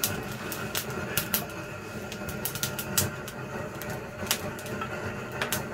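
Wood fire crackling, with irregular sharp pops and snaps over a low steady rush of flame.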